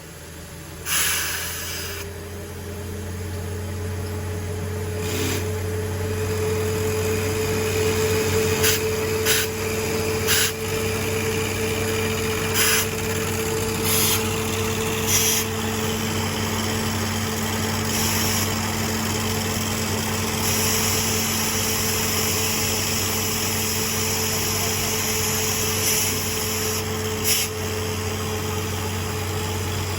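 Borewell drilling rig's engine running steadily, with short bursts of hissing noise breaking in every few seconds.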